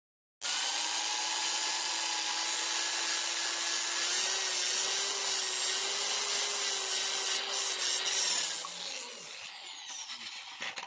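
Power drill spinning a valve-lapping tool to grind the valves into a motorcycle cylinder head with grinding compound. It runs at a steady pitch, then is let off about eight seconds in and spins down with falling pitch.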